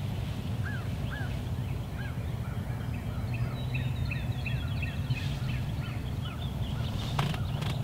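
Turkey yelps: a short series of about four arched notes, over a steady low hum. A brief rustle comes near the end.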